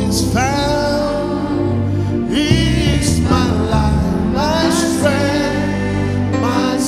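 A hymn sung with instrumental accompaniment. Long sung phrases are held over steady low accompanying notes.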